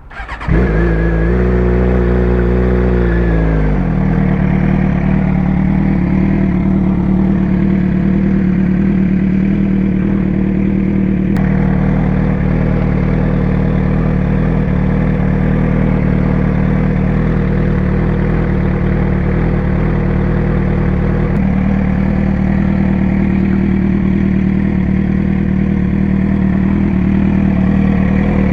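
Suzuki GSX-R600 inline-four motorcycle engine starting up about half a second in. Its revs settle over the first few seconds, then it idles steadily.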